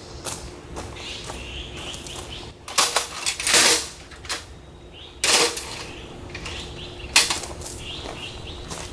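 A few sharp rustling and clattering handling noises, the longest about three and a half seconds in, with fainter ticks between them over a faint steady hum.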